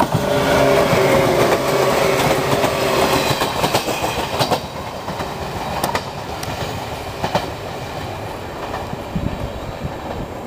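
JR 115 series electric train passing close by with a pitched hum, its wheels clacking over rail joints and points. It then fades as it runs away into the distance.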